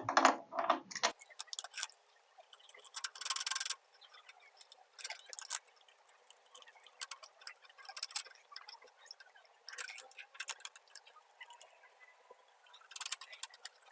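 Light metallic clicks and short rattling scrapes come every second or two as a spark plug socket and extension are fitted into the plug wells and turned by hand to run the new plugs in. The longest rattle is about three seconds in, with another near the end.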